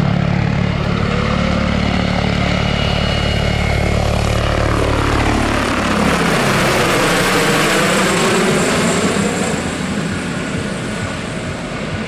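Radio-controlled scale model helicopter flying: a steady, loud rotor and engine sound that drops in pitch about five seconds in, then turns to a rushing whoosh that slowly fades.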